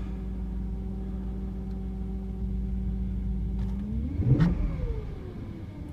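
1997 BMW 740iL's 4.4-litre V8 running at a steady cold idle just after its first start in five months, then revved once about four seconds in, its pitch rising sharply and falling back to idle.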